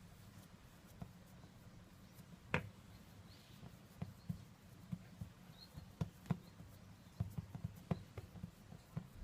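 Scattered light taps and clicks of kitchen handling during bread-making, with one sharper knock about two and a half seconds in and a busier run of irregular taps in the second half. A steady low hum runs underneath.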